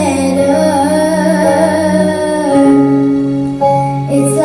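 Female vocalist holding a long sung note over a pop ballad backing track, the accompaniment changing chord about two and a half seconds in.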